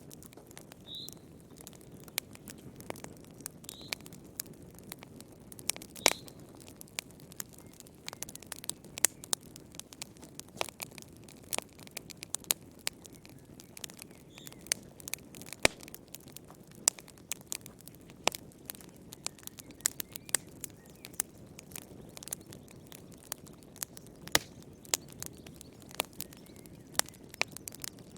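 Wood fire in a fireplace crackling: irregular sharp pops and snaps, several a second, over a steady low noise from the flames. A few brief high squeaks come from the burning wood.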